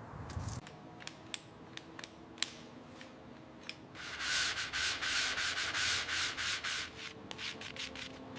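A few sharp clicks, then about three seconds of steady, rhythmic abrasive rubbing on a surface, like hand sanding or scrubbing, with more clicks near the end.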